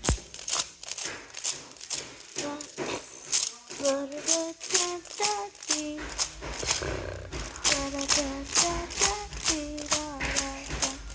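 A voice humming a simple tune in short stepped notes over a steady rattling beat of about two strokes a second.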